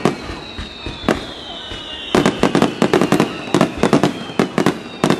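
Aerial firework shells bursting overhead: a bang at the start and another about a second in, then a quick volley of sharp bangs from about two seconds in. A faint high whistle slowly falling in pitch runs underneath.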